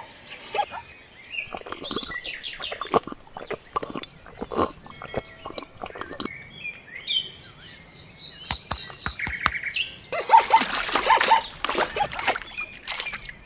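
Birds chirping, with a quick run of about eight high chirps some seven seconds in, over scattered light clicks and taps. A louder, busier stretch of sound comes near the end.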